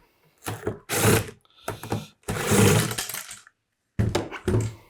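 Plastic housing of a Makita site radio creaking and cracking in irregular bursts as it is forced apart. The case is still held together by screws at the back, and it doesn't sound good. A few sharp clicks near the end.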